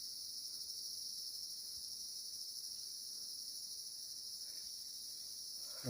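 A chorus of forest insects keeps up a steady, high-pitched drone.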